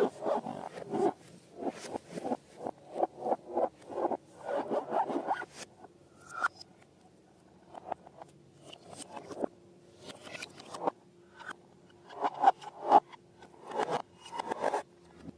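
Slime and balloon handling sounds: a run of short scraping strokes, about two a second, thinning out to scattered strokes after about five seconds, with a faint steady hum behind the later part.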